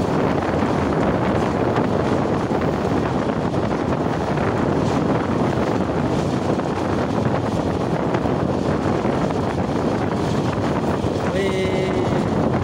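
Steady running noise of a moving train, with wind buffeting the microphone. A brief pitched sound comes in near the end.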